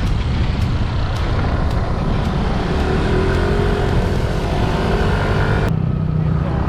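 Small motor scooter running at riding speed, with strong wind rushing over the microphone. The engine note rises a little midway. Near the end the rushing hiss cuts out suddenly, leaving a lower steady hum.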